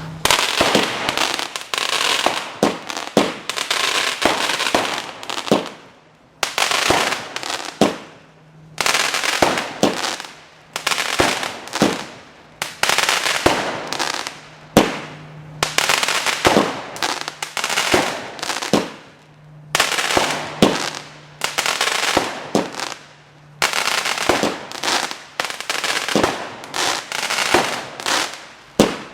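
Standard Fireworks 'Empire' 16-shot firework cake firing its large coloured crackle bursts: a string of loud shots, each followed by a spray of crackling that fizzles out, one shot every couple of seconds.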